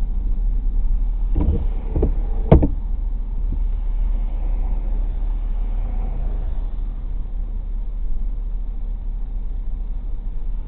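Steady low rumble of a car driving, heard from inside the cabin. A few sharp knocks come between about one and a half and two and a half seconds in, the last of them the loudest.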